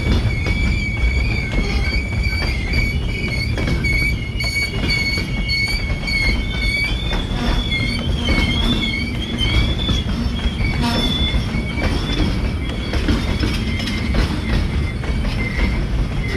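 A freight train of loaded centerbeam lumber flatcars rolling past with a steady low rumble of wheels on rail, and the steel wheels giving a sustained, wavering high-pitched squeal over it.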